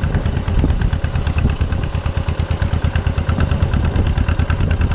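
Small farm tractor's engine running while being driven, with a steady, rapid pulsing beat.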